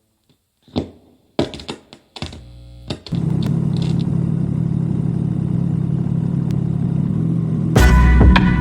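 A few scattered clicks and knocks, then from about three seconds in the Triumph Street Triple 765 RS's inline three-cylinder engine with its ZARD exhaust idling steadily. Music with a heavy throbbing bass comes in near the end.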